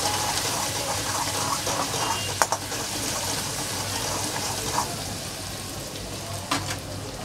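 Chopped garlic and ginger sizzling in hot oil in a steel kadhai while a steel spoon stirs them. The spoon clinks against the pan a few times, sharpest about two and a half seconds in.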